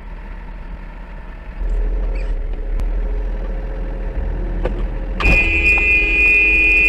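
Steady car road noise heard from a dashcam, growing louder a second and a half in; about five seconds in a car horn sounds suddenly and is held for about two seconds.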